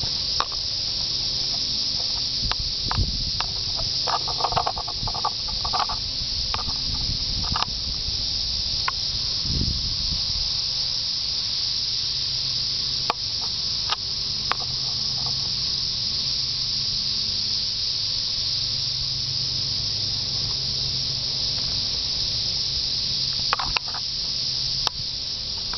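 A chorus of many cicadas keeps up a steady, high-pitched hissing drone, with a few short knocks scattered through it.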